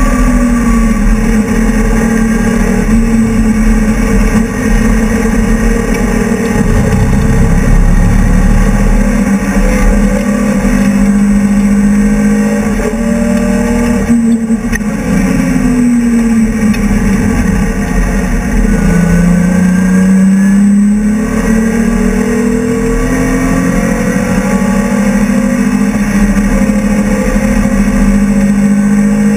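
BMW E30 race car's engine running hard at high revs, heard from inside the cabin. About halfway through, the pitch falls twice as the revs drop, then climbs again as the car accelerates.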